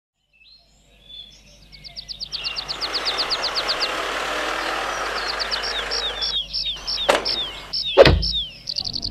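A songbird chirping in quick high trills over the rushing noise of a vehicle rolling in, which cuts off about six seconds in. Then two sharp knocks about a second apart, the second the loudest, with a low thud.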